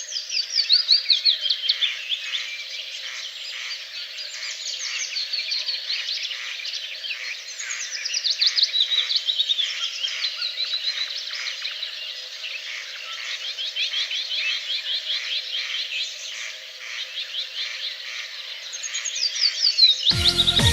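Outdoor wildlife chorus of rapid, high chirping calls, each a quick downward sweep, coming in repeated runs that swell and fade, over a faint steady hum. Music cuts in near the end.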